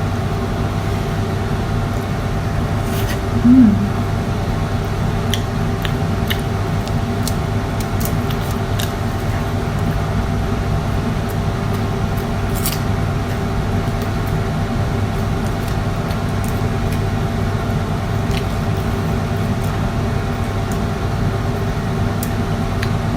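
A steady mechanical hum made of several held tones, with a few faint scattered clicks. There is one short low sound about three and a half seconds in.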